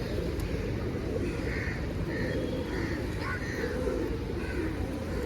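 A flock of birds calling: pigeons cooing in a dense low murmur, with short crow caws repeating about every half second over it.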